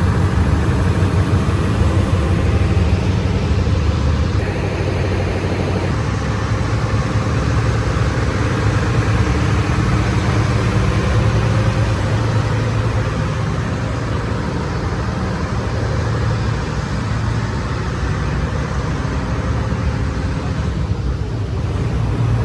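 An engine running steadily at a constant speed, a low, even hum with no revving.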